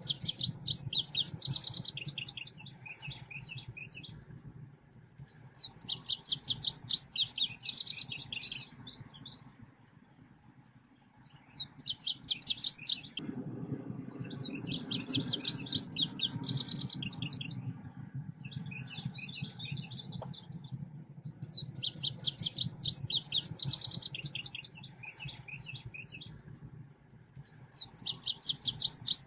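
Recorded song of the selendang biru, played as a lure call: bursts of rapid, high chirping notes lasting two to three seconds, repeated every few seconds, over a faint low hum.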